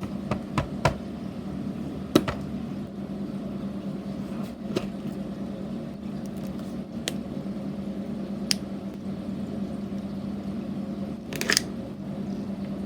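Slime being squeezed and poked, giving scattered sharp clicks and pops every second or two, a quick cluster of them near the end, over a steady low hum.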